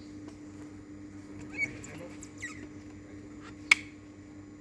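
Steady low electrical hum, with a few short high squeaks about one and a half and two and a half seconds in, and a single sharp click a little before the end.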